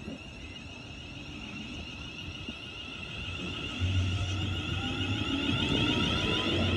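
Class 350 Desiro electric multiple unit pulling away: a high electric whine from its traction motors rises in pitch as it accelerates, over a growing low rumble that strengthens about four seconds in.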